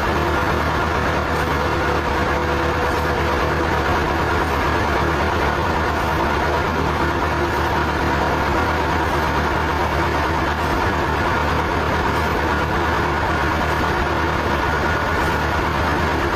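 Sawmill machinery running steadily: an even, engine-like drone that holds the same pitch and level throughout.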